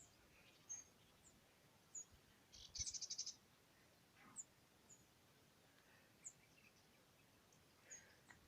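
Faint, high songbird chirps at scattered intervals, with one quick trill of about ten notes a few seconds in.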